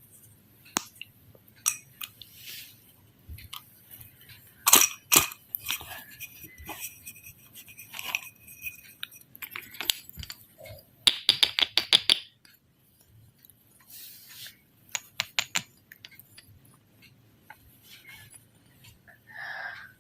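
Sharp clicks and taps on hard objects, some with a short ringing tone, including a quick run of about eight clicks a little past the middle and a brief rubbing sound near the end.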